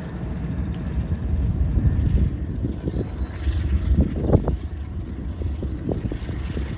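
Low, uneven rumble of a passing train, with wind buffeting the microphone and a few short, sharper knocks about four seconds in.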